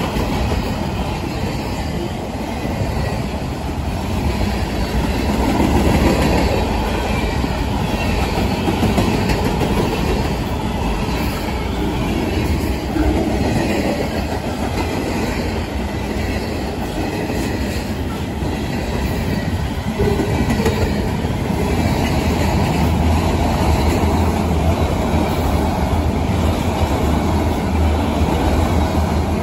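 A mixed freight train's cars passing close by (covered hoppers, lumber-laden centerbeam flatcars, then autoracks), the wheels making a steady loud rumble on the rails. It grows a little louder about twenty seconds in.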